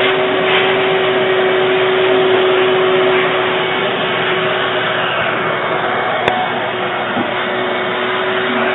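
Steady whir of an electric blower motor with a constant humming tone, and a single sharp click about six seconds in.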